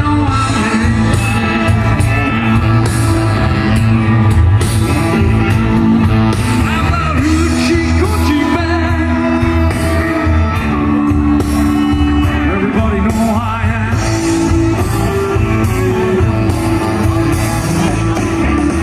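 Live blues band playing, with a voice singing over amplified guitar, bass and drums.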